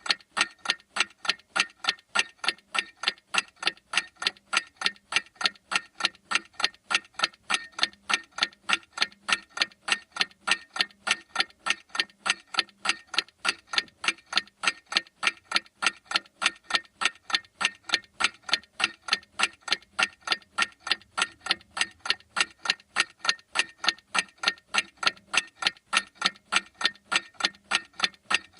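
Mechanical clock ticking in a fast, perfectly even rhythm of sharp clicks, a few ticks a second, with no change throughout.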